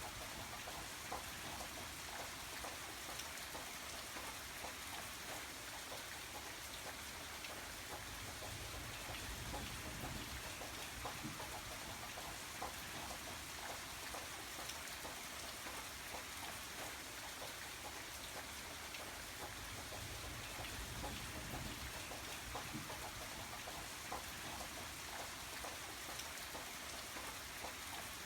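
Steady rain, with many small drops ticking over a soft, even hiss.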